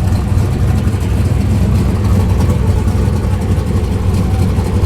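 Car engine idling, a steady low sound with no revving.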